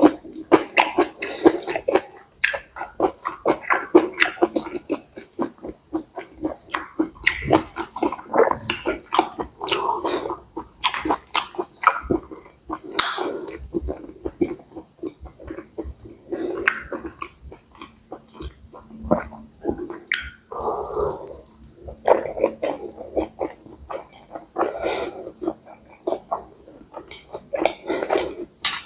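Close-miked eating of stir-fried soy-sauce noodles: wet chewing, biting and mouth smacking in quick irregular clicks and squelches.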